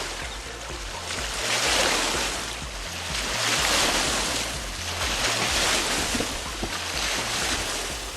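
A boat's wake washing up against the shore in a run of waves, each surge swelling and easing about every two seconds.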